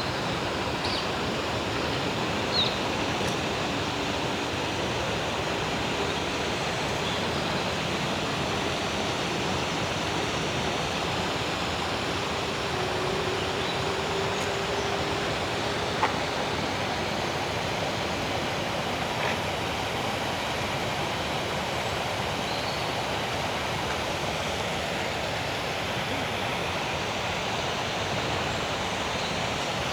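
Steady, even rushing noise like running or falling water, with a few faint clicks.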